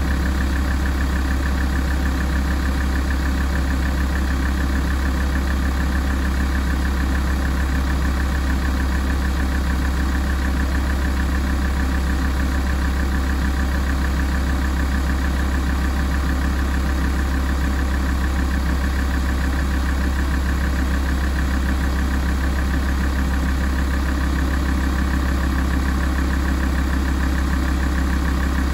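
Alfa Romeo 166's 2.4 JTDm five-cylinder common-rail diesel idling steadily while it warms up.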